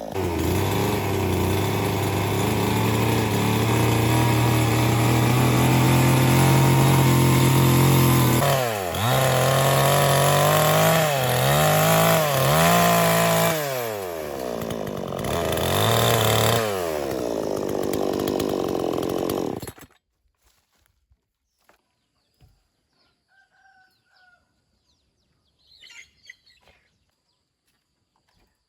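Chainsaw running at high revs, its pitch dipping and climbing again several times, then shut off abruptly about twenty seconds in. Near quiet follows, with a few faint small sounds.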